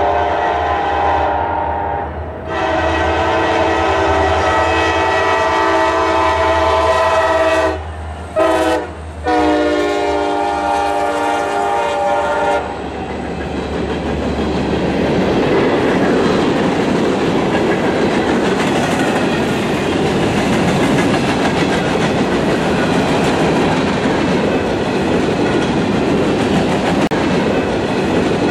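Diesel freight locomotive's air horn sounding the grade-crossing signal, long, long, short, long, over the low rumble of its engine. About thirteen seconds in the horn stops, and the passing freight cars take over with a steady rush and clatter of wheels on rail.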